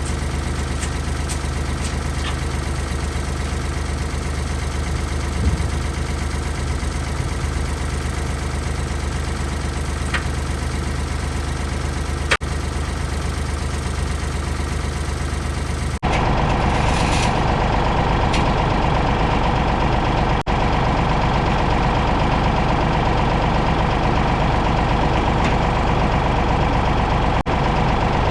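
Ford 555 backhoe loader's diesel engine running steadily. About sixteen seconds in, the sound changes abruptly to a louder, fuller engine note.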